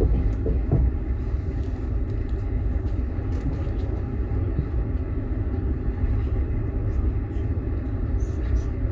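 Inside a moving passenger train carriage: the steady low rumble of the car running along the track, with faint scattered clicks and rattles.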